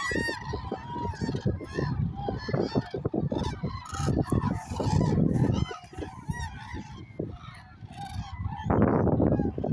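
A large flock of common cranes calling, many loud trumpeting calls overlapping continuously, over a low rumbling noise that swells midway and again near the end.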